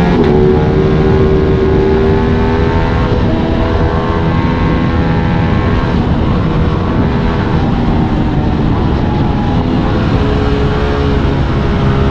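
Aprilia RS 660 parallel-twin motorcycle engine running at a steady cruising speed, heard onboard with wind rushing over the microphone.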